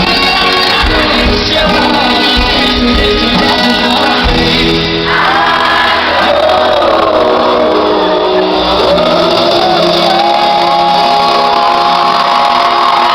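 Live pop concert music heard from the audience in a large hall: the band playing with long held sung notes and crowd shouting.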